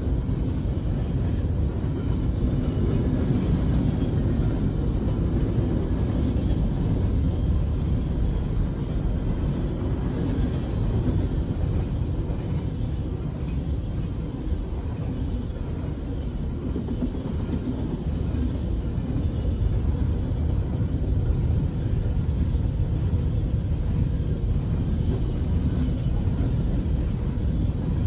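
Freight train of hopper and tank cars rolling past, a steady low rumble heard through a car's windows.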